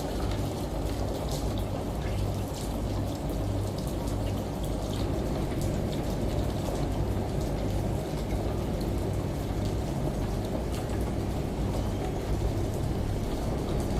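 Layered steady rain and shower spray with scattered sharp drop ticks, over the low pulsing hum of a washing machine running.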